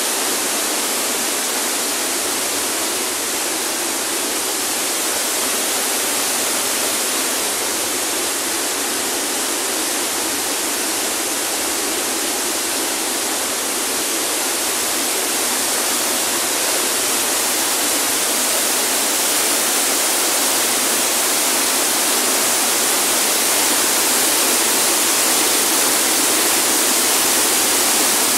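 Waterfall: a steady, dense rush of falling and splashing water, loud enough to drown out a voice, growing slightly louder in the second half.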